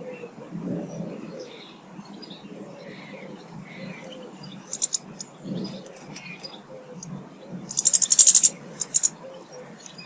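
Small garden birds chirping at a feeder, with a short burst of rapid, harsh chattering ticks just before eight seconds in and a few shorter ones around five and nine seconds, over a low steady background rumble.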